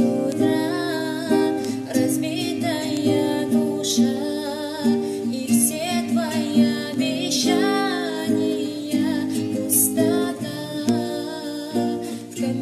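A voice singing over an acoustic guitar.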